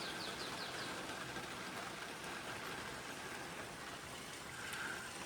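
Steady rain falling, an even hiss throughout, with a quick run of about six short bird chirps right at the start.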